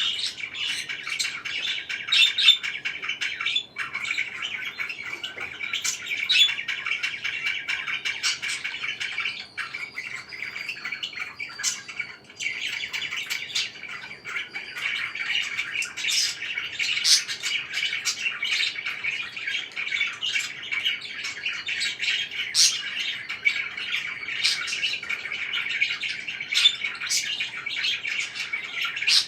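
A group of parakeets chirping nonstop: a constant chatter of many overlapping chirps, with sharper, louder calls standing out from it again and again.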